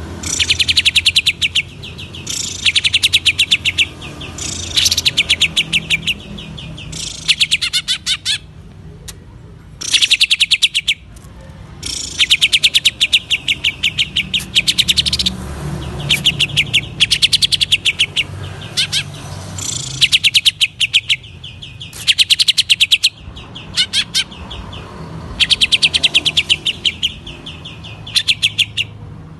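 A cucak ijo (green leafbird) singing in repeated bursts of fast rattling notes, each burst a second or two long, with short pauses between them. This is the rapid 'ngentrok' rattle that bird keepers prize in this species.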